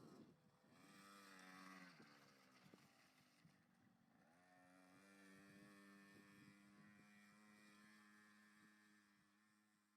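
Faint KTM 50 two-stroke motocross bike engine revving up and down, then holding a steady pitch for several seconds before fading away near the end.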